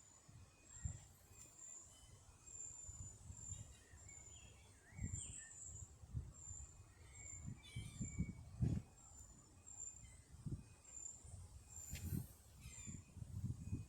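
A small bird calling, a short high chirp repeated steadily about once or twice a second, over an irregular low rumble.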